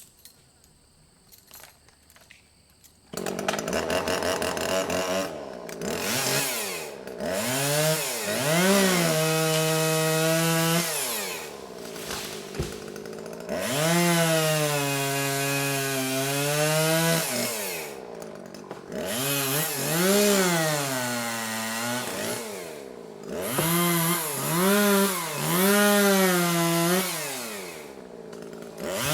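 Chainsaw logging small trees. After about three seconds of near quiet with faint clicks, the saw comes in loud and revs up and down again and again, easing off briefly a few times between revs.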